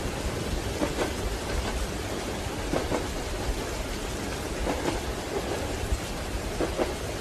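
Steady rain on a train window over a low rumble, with the train's wheels knocking over rail joints in pairs about every two seconds.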